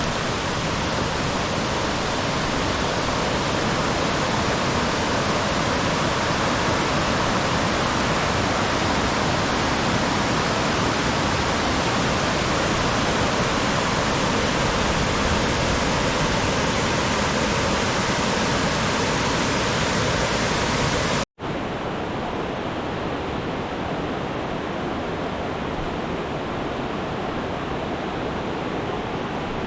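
Steady rush of running water. About 21 seconds in it cuts abruptly to a second, slightly quieter and duller stretch of the same rushing sound.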